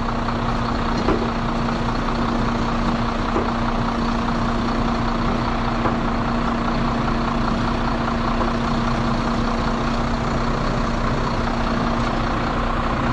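Heavy recovery truck's diesel engine running steadily at a constant speed, with a steady hum.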